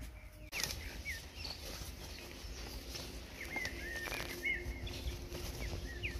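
Small birds chirping: many short, quick, high chirps, busiest in the middle stretch, over a low background rumble.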